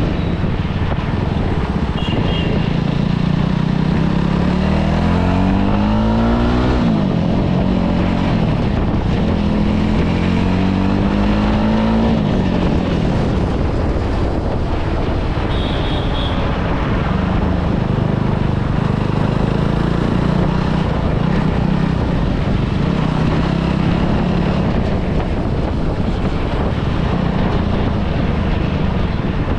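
Motorcycle engine under way, pulling up in pitch twice in the first half and dropping back each time, over steady road and wind noise.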